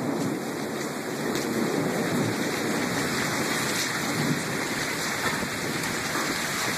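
Heavy rain pouring down on pavement, a steady rushing hiss with a few faint ticks from drops or small hail.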